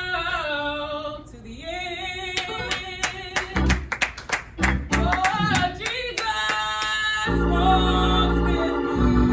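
Gospel singing with instrumental accompaniment during a church service, with a run of sharp rhythmic hits in the middle. About seven seconds in, the instruments settle into steady held low chords.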